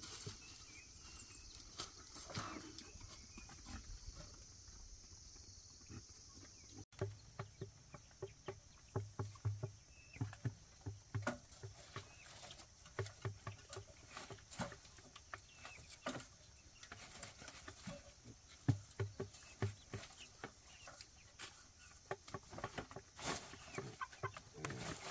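Chickens clucking among a run of short knocks and taps that come thickly from about seven seconds in.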